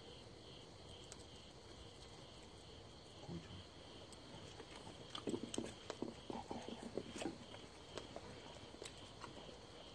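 Crickets chirping steadily in a regular pulse. About five seconds in, a brief cluster of quick light clicks and taps sounds over them.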